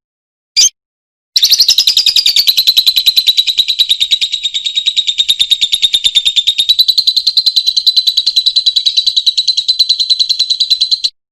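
Lovebird calling: one short chirp, then a long, very rapid chattering trill (the 'ngekek') of close to ten seconds. The trill stays high and even and cuts off abruptly.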